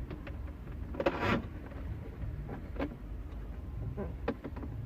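A wire being fished through behind plastic dashboard trim by hand: light clicks and rubbing, with a louder scrape about a second in.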